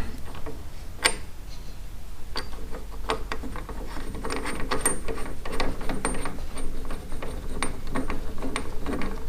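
Irregular metallic clicks and clinks of a washer and bolt being fitted to a motorcycle's front motor mount with hand tools. The clicks come thicker from about four seconds in.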